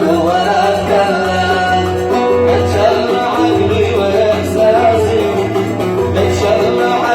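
Oud playing a Yemeni Sanaani song melody in quick plucked notes, with a male voice singing along.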